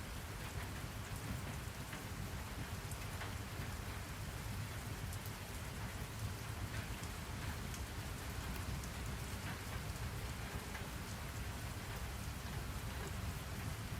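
Steady rain falling, with a low rumble beneath it and scattered drops pattering on a surface.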